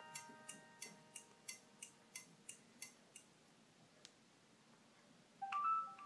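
A Nokia 3710 fold's loudspeaker plays a preset calendar alert tone: ticking about three times a second over fading chime notes, dying away about three seconds in. Near the end the next calendar alert tone starts with a brighter chime.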